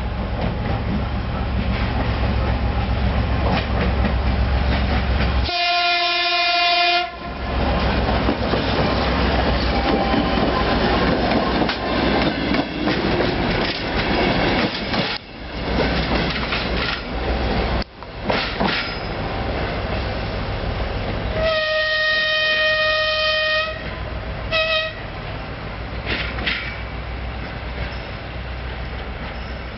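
A passenger train passing close: steady engine rumble and wheels clicking over the rail joints, with a horn blast about six seconds in and a second, higher-pitched horn blast around twenty-two seconds in, ending in a short toot. The sound eases a little toward the end as the train moves away.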